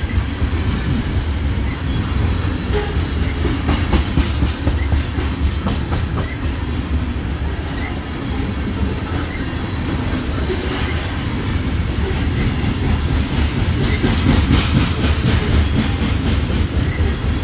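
Steel wheels of BNSF covered hopper cars rolling past on the rails: a steady low rumble with clickety-clack clatter and scattered sharp clicks.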